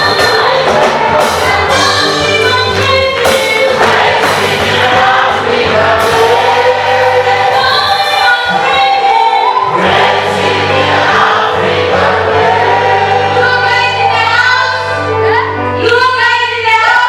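A choir singing an African gospel song with a band backing them, with a steady bass line and regular percussion under the voices.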